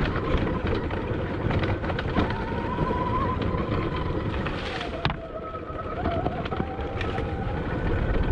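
Admitjet Armor electric dirt bike underway on a trail: wind buffets the microphone and a thin motor whine comes in about two seconds in, dropping in pitch around five seconds. Through it runs a steady clatter of rattles from underneath the bike, a noise the rider has checked the bolts and kickstand for without finding its cause.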